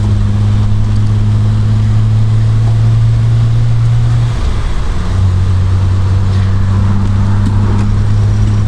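Triumph Vitesse Mk2's straight-six engine running steadily under way. The engine note breaks briefly about four seconds in, then carries on a little lower.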